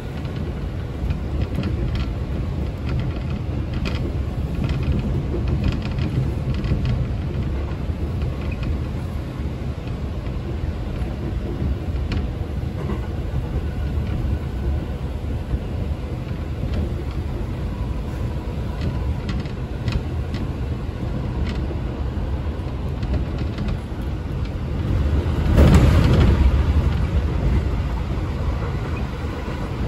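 Running noise inside a JR Chuo Main Line local electric train carriage: a steady rumble of the train moving along the track, with a louder rush for a couple of seconds about 25 seconds in.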